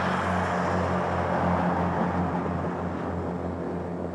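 Electric train running: a steady low hum under a rumbling noise, fading slowly toward the end.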